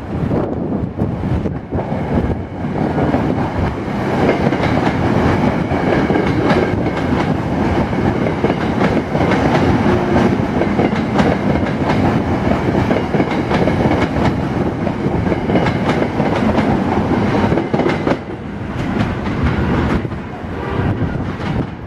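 SEPTA Silverliner IV electric multiple-unit commuter train passing at speed, a steady loud rumble of wheels on the rails. About eighteen seconds in the sound drops suddenly to a quieter train.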